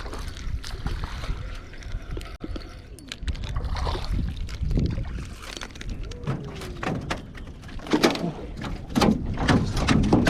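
Wind buffeting the microphone and water sloshing, with scattered clicks and knocks as a hooked largemouth bass is reeled in and handled at a jon boat; the knocking gets busier near the end.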